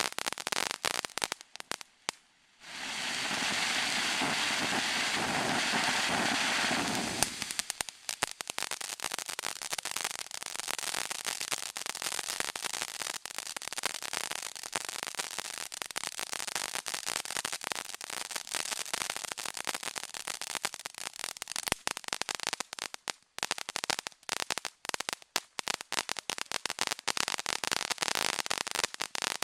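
Fountain (shower) firework burning: dense rapid crackling throughout, with a loud steady hiss of spraying sparks from about two and a half to seven seconds in.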